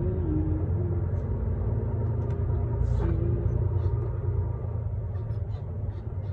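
Truck driving on the road, heard from the cab: a steady low rumble of engine and road noise.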